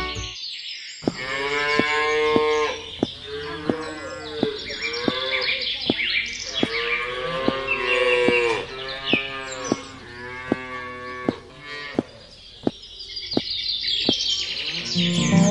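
Cows mooing: a run of long, drawn-out moos one after another, with sharp clicks among them.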